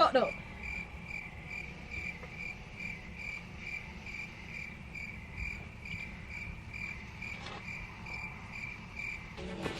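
A cricket chirping steadily in an even, high-pitched pulse of about two to three chirps a second.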